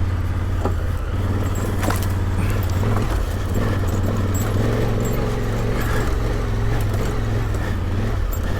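Adventure motorcycle engine running steadily at low speed on a rough off-road track, with a few sharp clicks and light clatter from the bike over the rocky ground.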